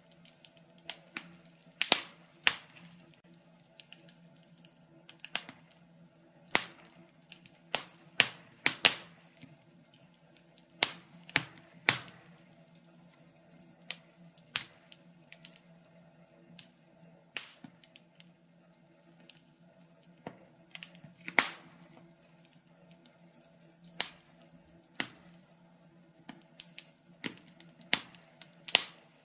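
Wood fire burning in a fireplace, crackling with sharp, irregular pops about once a second, some much louder than others, over a faint steady low hum.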